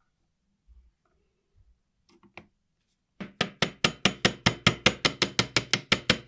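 Rapid, even light hammer taps on a metal part, about six or seven strikes a second with a short metallic ring after each, starting about three seconds in after a few faint clicks.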